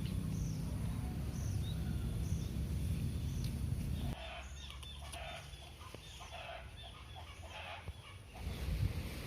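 Low wind rumble with a faint high chirp repeating a little more than once a second. About four seconds in the rumble cuts off and a run of short bird calls follows, then the rumble comes back near the end.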